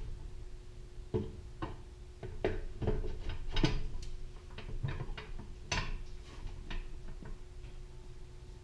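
Irregular clicks and knocks of metal parts being handled while fitting a pressure washer pump to its engine, the loudest about three and a half seconds in, over a faint steady hum.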